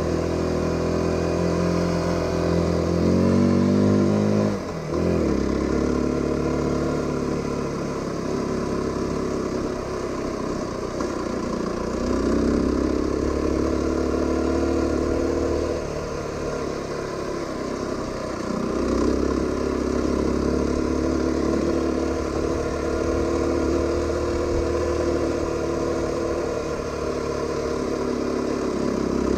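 Aprilia RX125 single-cylinder motorcycle engine running under way: it revs up, cuts out briefly about four and a half seconds in as a gear is changed, then pulls on steadily with a few rises in pitch.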